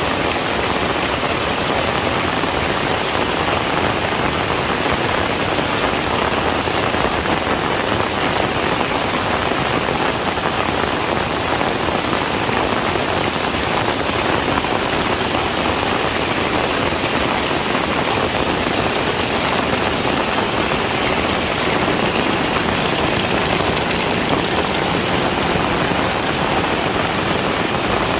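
Heavy rain falling steadily on a surface, a dense, even hiss of many drops with no breaks or changes in intensity.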